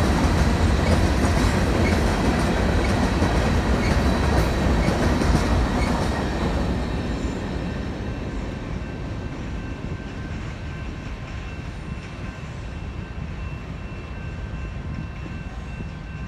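Freight train of covered hopper cars rolling past, its wheels rumbling on the rails. The rumble dies down about six seconds in as the end of the train passes and moves away, leaving a lower, fainter rumble.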